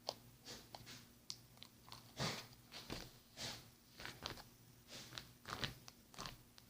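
Hands squishing and pressing slime close up, making irregular wet clicks and crackling pops.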